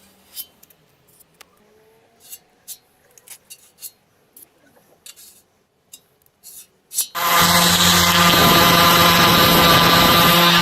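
Scattered light taps and clicks of hand work on metal parts, then about seven seconds in an electric power tool starts and runs loudly and steadily at one pitch.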